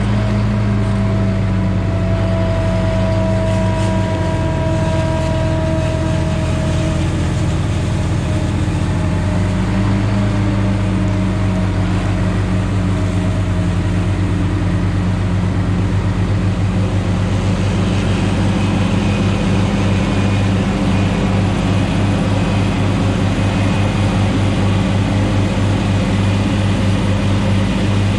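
Valtra T234 Direct tractor's six-cylinder diesel engine running steadily under load, with a faint high whine over the engine note; the engine's pitch shifts slightly a few seconds in and again about ten seconds in.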